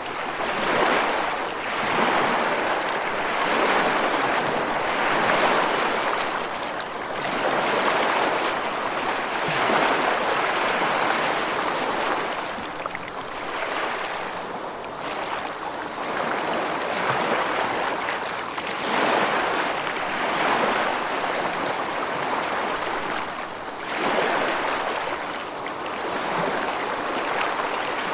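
Rushing water, a steady noisy wash that swells and eases every two to three seconds.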